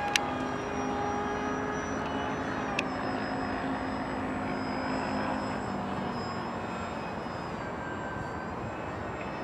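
Battery-powered electric motor of a radio-controlled seaplane whining steadily in flight, its pitch stepping down slightly partway through, over a heavy rush of wind noise. A sharp click comes right at the start and another about three seconds in.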